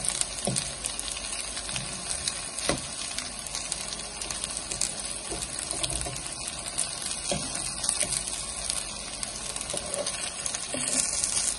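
Sabudana cutlets shallow-frying in oil in a pan, with a steady sizzle. A few short knocks are heard as a fork and spatula turn the cutlets against the pan.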